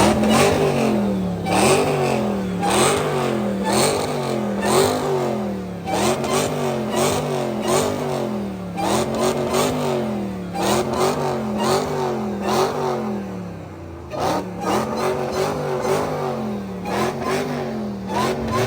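Car engine revved over and over in quick throttle blips, its pitch rising and falling about every three-quarters of a second, with sharp cracks from the exhaust through the revving.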